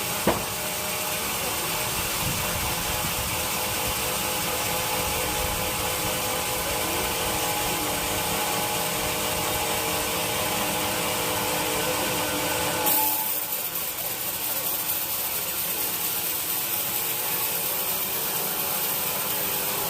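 Sawmill saw running on teak wood, a steady mechanical noise with a low hum. About thirteen seconds in the sound changes abruptly: the hum drops away and a brighter hiss takes over.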